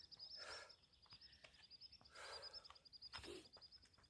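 Near silence: a man breathing hard three times while resting between sets of burpees, over a steady, fast, high-pitched chirping of insects.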